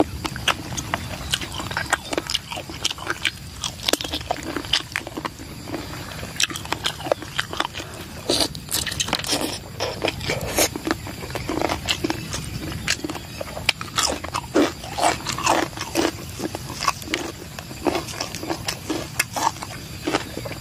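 A person chewing and crunching a spicy salad of cold chicken feet and raw vegetables, with many short, irregular crunches and clicks.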